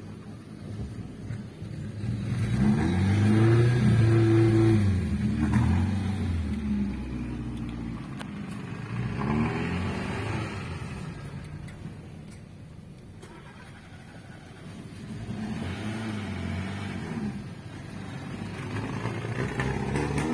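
Car engine accelerating in repeated surges, its pitch rising and falling. The longest and loudest surge comes about two seconds in, with shorter ones near the middle, around three-quarters of the way through, and near the end.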